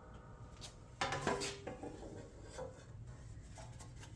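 Parts being handled on a workbench: a sharp clatter about a second in that rings briefly, then a few light clicks and knocks.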